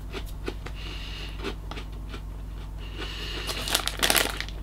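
Small crunchy crackers being chewed, with faint scattered crunches, then a crinkly foil snack bag being handled, with a louder run of crackling about three and a half seconds in. A low steady hum runs underneath.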